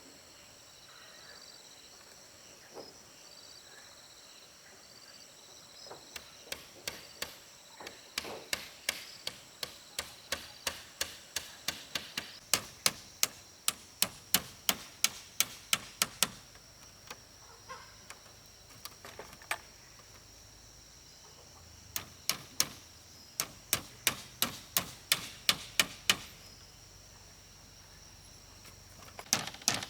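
Hammer striking in quick runs of sharp, ringing blows, about three a second, with a pause of several seconds between runs. Insects chirr steadily in the background.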